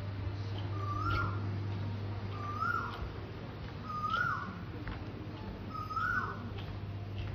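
An animal call, a short note that rises and then drops sharply, repeated about every one and a half seconds, over a steady low hum.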